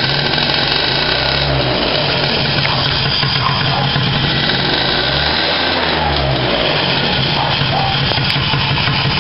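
Peugeot Speedfight 2 50cc two-stroke scooter engine running, loud and steady, its revs wavering up and down twice. The owner says the clutch isn't working: the rear wheel won't spin freely and is slow to start turning.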